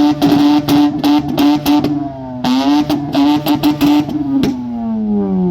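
Car engine and exhaust revved high and held, the note choppy and stuttering, then the revs drop away in a falling pitch near the end.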